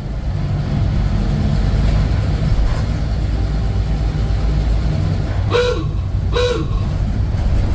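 1948 Ford F5 bus engine running steadily as the bus drives along at low speed. About five and a half seconds in, two short loud sounds come a little under a second apart.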